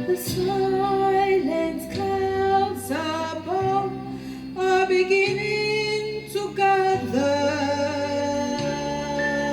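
A woman singing held, gliding notes without clear words over an instrumental backing with a bass line that steps between notes.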